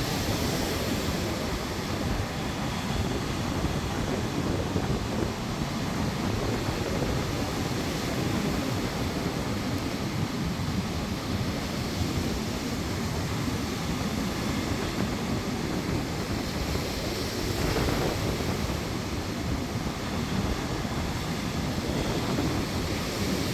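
Strong wind buffeting the microphone over the steady wash of surf breaking on the shore, with a brief swell in the noise partway through.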